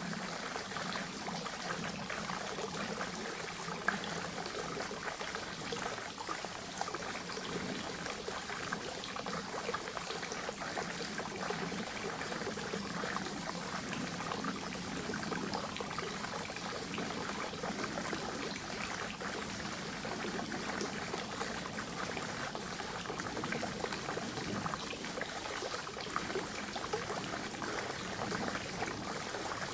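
Spring water trickling and splashing into a forest pond, a steady pouring sound with fine bubbly detail and no change throughout.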